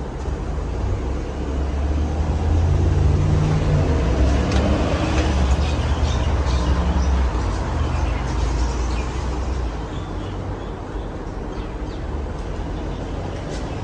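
Hampton Bay Cameron II Plus ceiling fan running steadily, under a low rumble that swells from about two seconds in and fades near ten seconds.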